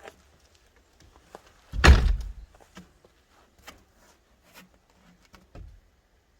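A single heavy thunk about two seconds in, with a short ring after it, among a few light clicks, and a softer knock near the end.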